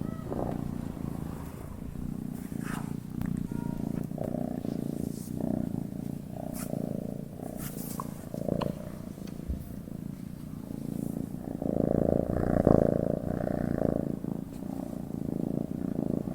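Domestic cat purring steadily as it sleeps, a low continuous rumble that swells louder for a couple of seconds about twelve seconds in.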